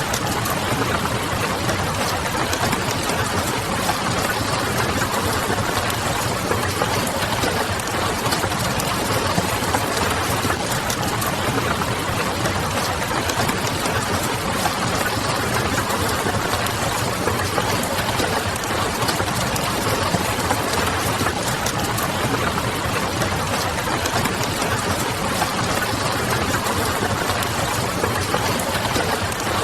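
Steady rain pattering, mixed with the faint crackle of a wood fire and a low distant city hum, all at an even level.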